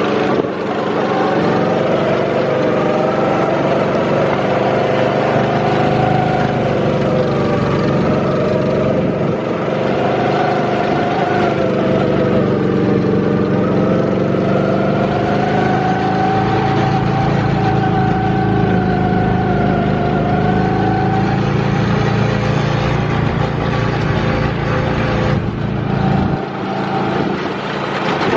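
Go-kart engine running, its pitch rising and falling as the throttle changes.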